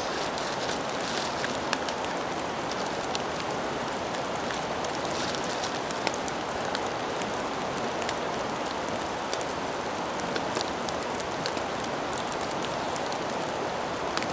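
Heavy rain falling steadily, with scattered sharp ticks of individual drops striking nearby surfaces.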